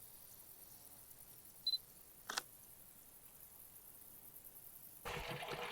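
Digital camera's short autofocus-confirmation beep, then a single shutter click about half a second later. Near the end the steady rush of a mountain stream comes in.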